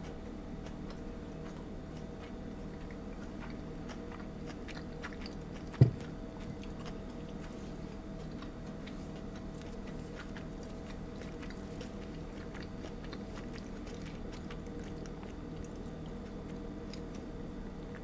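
A person chewing food close to the microphone, with small wet clicks and light crunches over a steady low hum. One sharp thump about six seconds in is the loudest sound.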